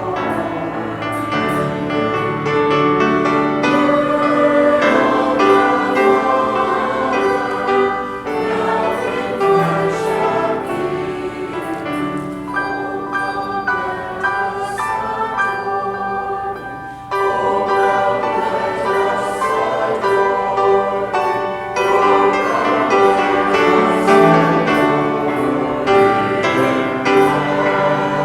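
A choir singing with instrumental accompaniment, sustained chords moving from note to note, with a brief dip about two-thirds of the way through.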